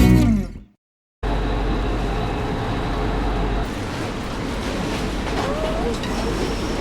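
Music fading out, then a short gap, then the steady ambience aboard a ferry under way: a low engine drone under an even wash of water and wind noise.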